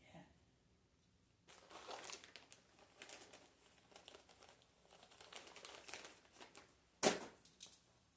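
Crinkling and rustling of material being handled for about five seconds, then a single sharp snap a little after seven seconds in.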